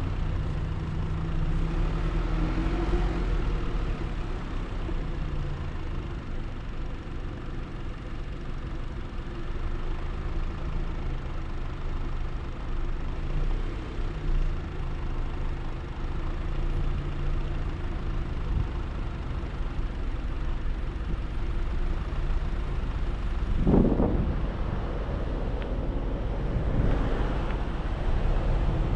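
Car driving along a road: a steady low rumble of tyres and engine, with a brief louder swell about 24 seconds in.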